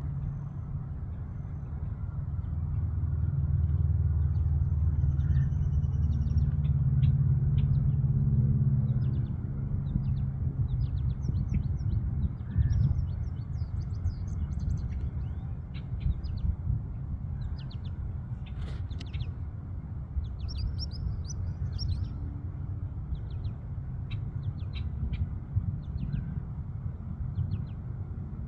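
Small birds chirping in short, quick calls again and again over a steady low rumble. A low pitched hum swells for several seconds about three seconds in, then fades back into the rumble.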